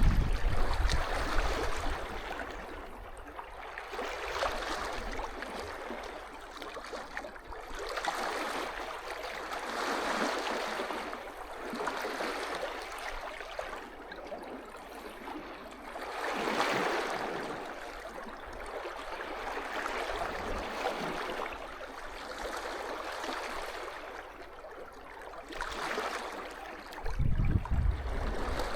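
Small sea waves washing and lapping on the beach, swelling and easing every few seconds. Near the end a short low rumble of wind buffeting the microphone.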